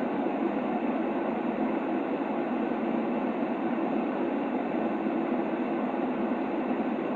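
Steady sleep-aid white noise: a constant, even hiss, weighted toward the lower middle and without tones or rhythm.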